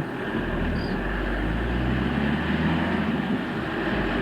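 Steady rumble of a moving vehicle, engine and road noise together, with a low engine hum coming up about half a second in and fading shortly after three seconds.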